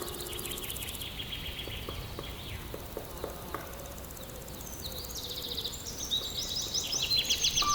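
Songbirds chirping in quick repeated trills over a low, steady outdoor hiss. The calls are sparse at first and grow busier and louder over the last couple of seconds.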